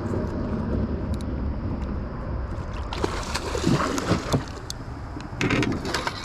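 Water splashing and sloshing in bursts over a steady low rumble, about three seconds in and again near the end: a hooked catfish thrashing at the surface while being fought in.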